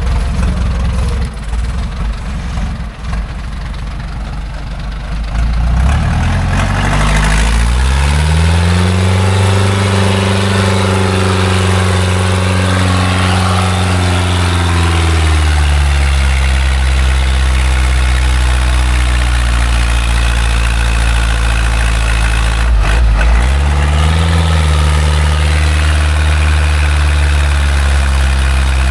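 Loaded logging truck's engine idling low, then revving up about six seconds in and held at high revs under load. It eases slightly, drops briefly a few seconds before the end, and revs up again.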